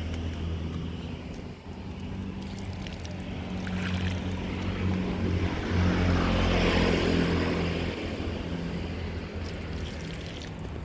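A steady low engine hum, with a rushing noise that swells and peaks about six to seven seconds in.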